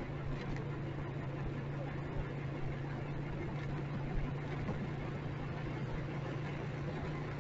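Motorcycle engine running at a steady, unchanging pitch, over a haze of street traffic noise.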